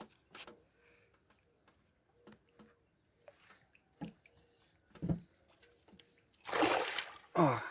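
A hooked fish splashing at the water's surface as it is brought in by the angler: a few soft knocks, then one loud splash near the end, followed by a short falling grunt.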